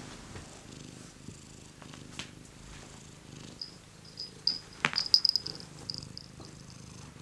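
Domestic cat purring steadily, with a run of sharp, high clicks in the middle, the loudest snap about five seconds in.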